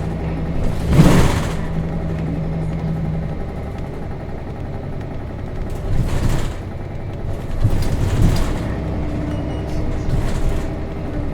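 Cabin sound of a Nissan Diesel RM city bus under way, its FE6 inline-six diesel running, with a loud knock or thump about a second in and a few lighter knocks and rattles later. A steady engine tone stops about three seconds in as the engine note changes.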